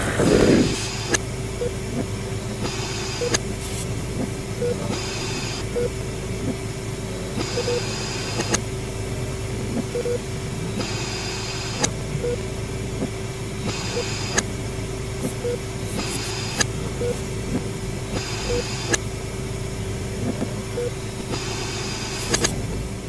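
Eerie hospital ambience for a haunted attraction: a steady low hum with one held tone under it, a soft short beep every second or two, and brief hisses that come back every few seconds.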